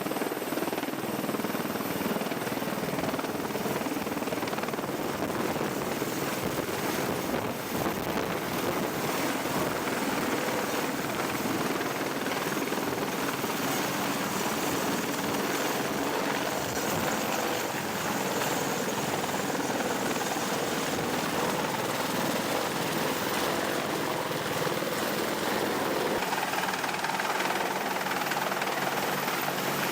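Helicopter running steadily: a continuous wash of rotor and turbine noise with no breaks.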